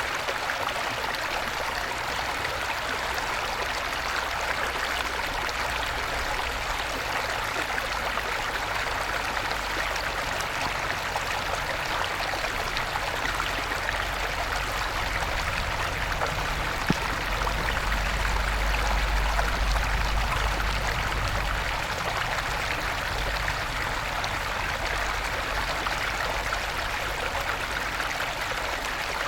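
Small stream after rain, its water babbling and flowing steadily over stones. A low rumble swells for a few seconds around the middle, and there is a single faint click about halfway through.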